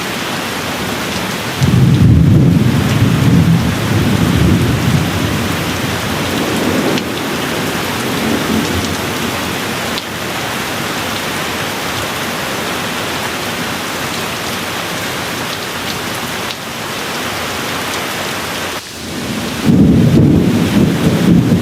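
Steady rain with two rolls of thunder. One low rumble comes in suddenly about two seconds in and dies away over several seconds; another begins near the end.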